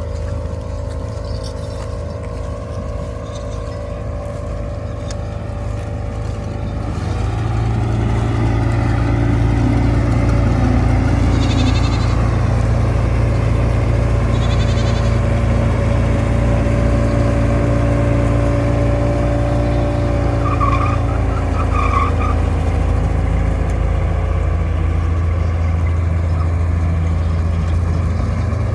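Combine harvester's diesel engine running steadily with a deep drone, growing louder about a quarter of the way in. A few short high chirps sound over it near the middle and later.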